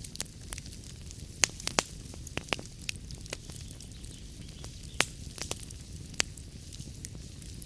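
Wood fire burning in a fireplace: a steady low rumble and hiss with irregular crackles and sharp pops. The loudest pops come about a second and a half in, around five seconds and around six seconds in.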